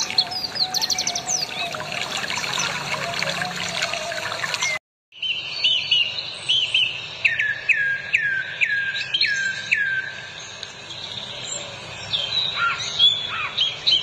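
Birds chirping and calling. The sound cuts out briefly about five seconds in, then one bird repeats a run of about seven falling notes, roughly two or three a second.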